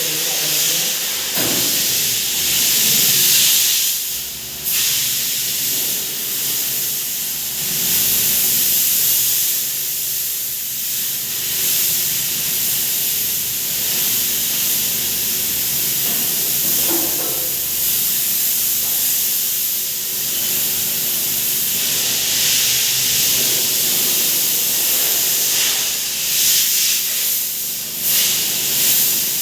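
A steady, loud hiss of a pressurised jet, dipping briefly about four seconds in and swelling unevenly a few times near the end.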